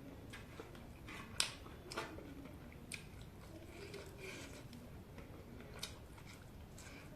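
A person chewing and eating chicken close to the microphone, with soft mouth sounds and a few short sharp clicks and smacks, the loudest about one and a half seconds in.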